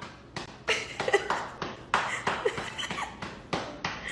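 A quick, irregular series of taps and knocks, several a second.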